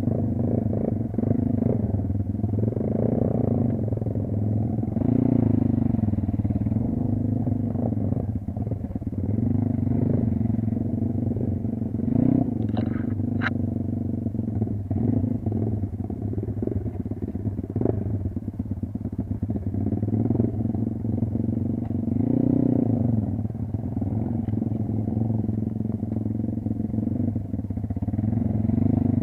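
Motorcycle engine running while being ridden, revving up and easing off again and again. A couple of sharp clicks come about halfway through.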